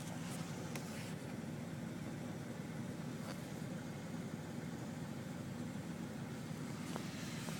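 The 1981 Buick Electra 225's carbureted 4.1-litre V6 idling steadily, a low even hum, with one sharp click right at the start.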